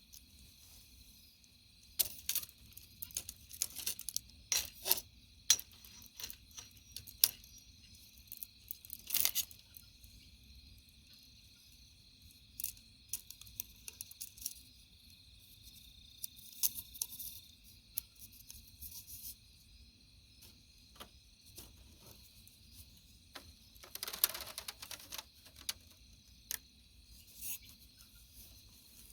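Scattered sharp clicks and short crackling rustles, with a longer rustle about 24 seconds in, over a faint steady high hiss.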